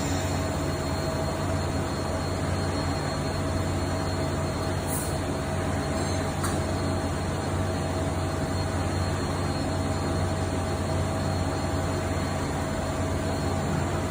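Multi-tasking CNC lathe running during a broaching operation: a steady machine hum and whir with a thin steady tone, and two faint ticks about five and six and a half seconds in.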